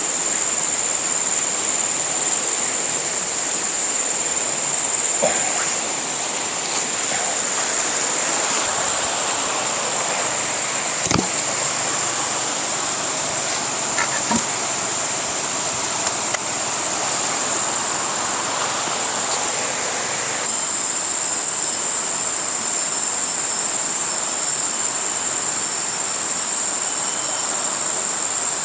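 Jungle insect chorus: a steady, high-pitched drone over the even rush of water, with a couple of short knocks. About two-thirds of the way through it turns louder and other insects join with short, repeated high chirps.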